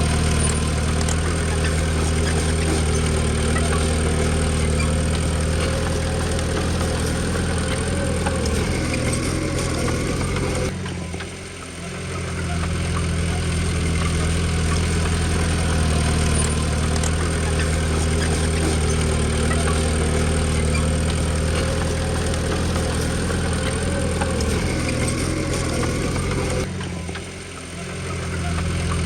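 Diesel engine of a Komatsu D20P bulldozer running steadily. The sound drops in level briefly twice, about a third of the way in and near the end, then returns to the same steady run.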